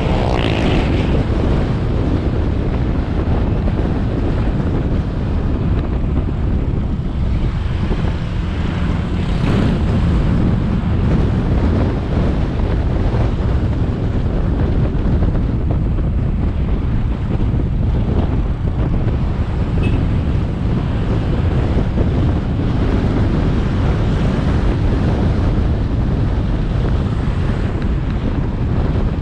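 Motorbike riding sound as picked up by an action camera: wind buffeting the microphone over the engine and road noise, a steady low rumble throughout.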